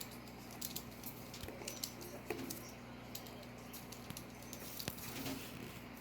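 Corgi puppies playing with chew toys: scattered small clicks, taps and rustles, with a few faint high squeaks, over a steady low hum.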